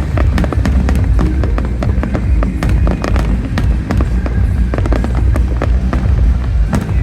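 Fireworks going off in rapid, irregular bangs and crackles, over loud music with a heavy bass.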